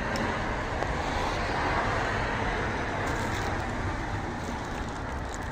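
Steady motor-vehicle noise: an even rumble and hiss with no distinct rhythm or pitch.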